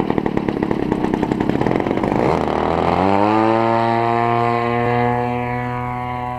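Desert Aircraft DA-35 two-stroke gasoline engine of an RC model plane running with rapid, even firing pulses. About three seconds in, a steady held tone with many overtones takes over and slowly fades.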